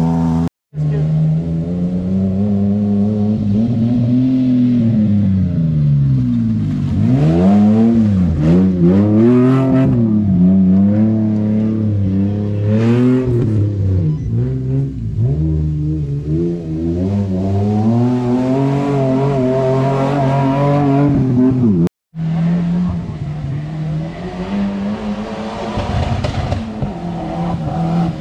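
Off-road race vehicle engines revving hard, the pitch climbing and falling again and again as the throttle is worked. The sound cuts out for a moment twice.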